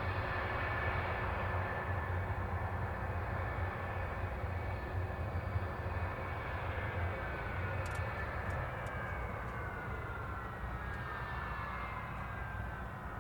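Military jet engine noise, a heavy rush with a whine that slowly falls in pitch as the aircraft passes and gradually fades.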